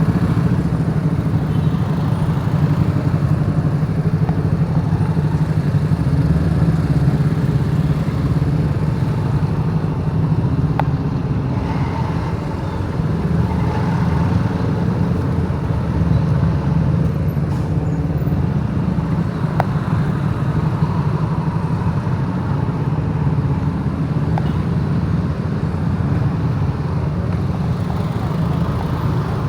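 Motorbike engine running steadily while riding, with road and traffic noise around it.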